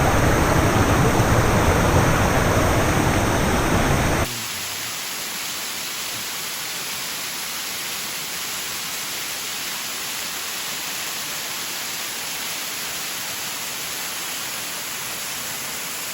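Steady rush of a waterfall into a plunge pool, an even hiss without pitch. About four seconds in it cuts abruptly to a quieter, thinner rush with little low rumble.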